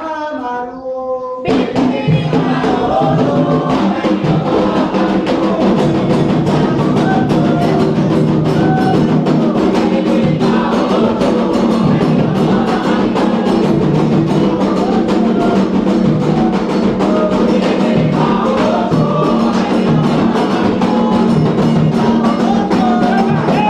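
Candomblé ritual music: a solo voice sings a line, then about a second and a half in, atabaque hand drums and a chorus of voices come in together and keep up a fast, steady rhythm with the singing.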